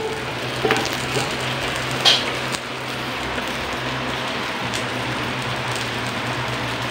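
Whole fish sizzling steadily on the hot grill plate of an Imarflex 8-in-1 electric griller. In the first two seconds there are a couple of light clicks as burnt bits are wiped off the plate with a tissue.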